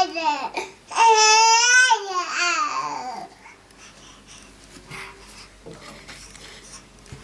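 A baby crying: a long, held wail that rises slightly then falls away, trailing off into shorter sobs, then a few faint small knocks and rustles.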